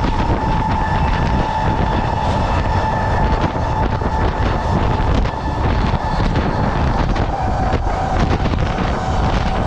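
Freight train running along, with wind buffeting the microphone over a dense low rumble and scattered clicks. A steady high whine sits above it and drops slightly in pitch about three-quarters of the way through.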